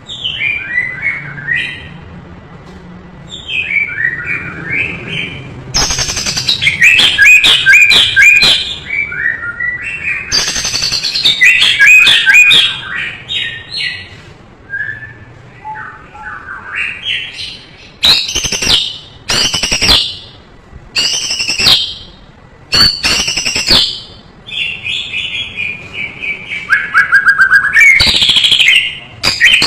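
White-rumped shama (murai batu) singing a loud, varied song of whistled phrases and quick trills, full of mimicked fills (isian). In the second half come several short, loud phrases repeated one after another.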